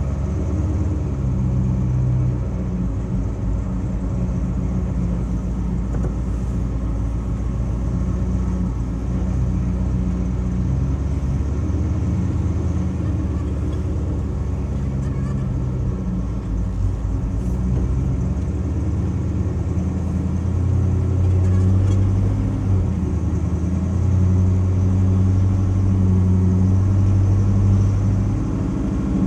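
1983 Chevy C10 pickup under way, its engine running through a dual exhaust with an X-pipe in a steady low drone, with a small drop in pitch about two-thirds of the way through.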